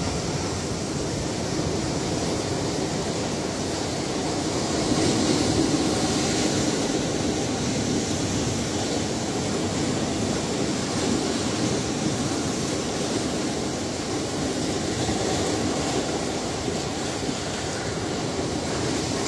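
Ocean surf: a steady wash of breaking waves that swells a little louder about five seconds in, then eases back.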